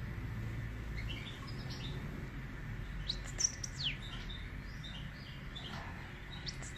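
Small birds chirping, with scattered short high notes, a quick burst of sweeping chirps about three seconds in and a rapid run of notes near the end, over a steady low hum.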